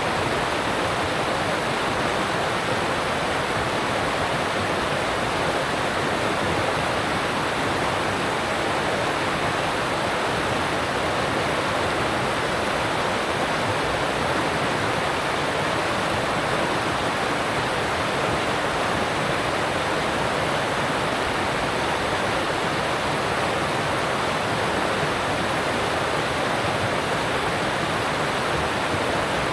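Alpine stream rushing over rocks: a steady, even rush of water with no breaks.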